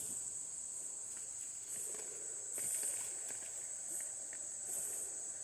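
Steady high-pitched chorus of insects, with faint scattered rustles and small clicks.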